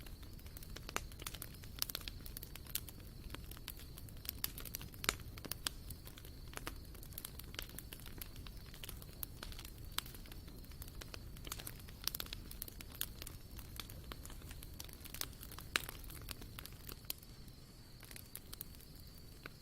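Wood campfire crackling, with frequent irregular sharp pops and snaps over a low, steady rumble. A faint, steady high-pitched tone runs alongside.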